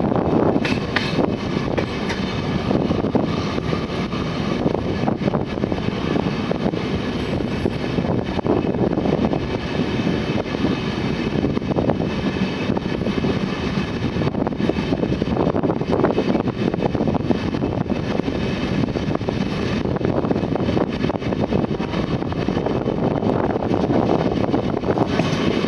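Moving passenger train heard from an open coach doorway: a steady rumble of wheels running on the rails, with wind rushing past.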